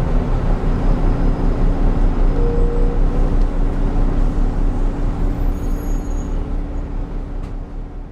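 Volvo B9TL bus's B9B-310 six-cylinder diesel engine and drivetrain running with a steady low drone, growing gradually quieter over the last couple of seconds.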